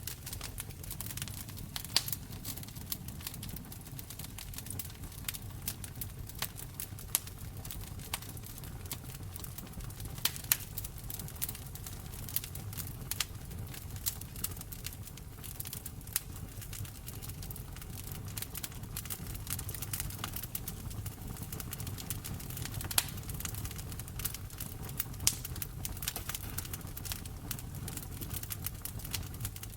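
Wood fire crackling in a fireplace: many sharp pops and snaps at irregular intervals, a few louder than the rest, over a steady low rumble.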